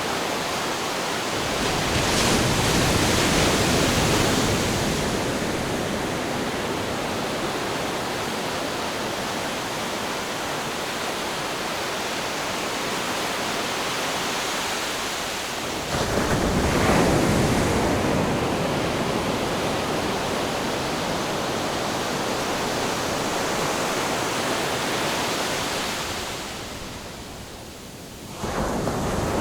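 Ocean surf: a continuous wash of waves, with louder breakers about two seconds in and about sixteen seconds in. Near the end the sound dips, then comes back suddenly.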